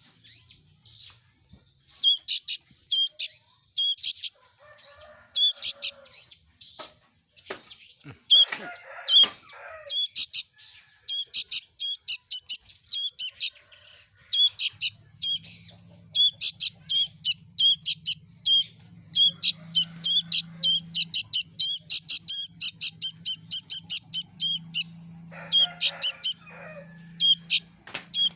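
Baby birds chirping: short, high-pitched calls repeated quickly in runs with brief pauses. A faint low steady hum comes in about halfway through.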